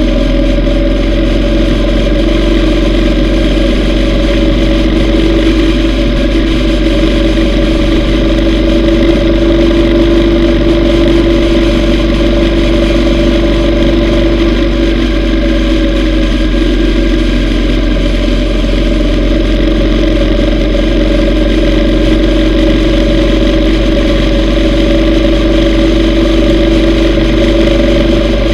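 Yamaha V Star 950's air-cooled V-twin engine running steadily at a constant cruising speed, with a low wind rumble on the microphone.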